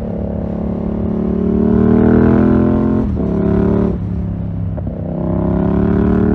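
2020 Yamaha MT-07's parallel-twin engine through a full SC-Project 2-1 exhaust, pulling under acceleration with its note rising. The pitch drops sharply about three seconds in and again about a second later as it shifts up, then climbs again.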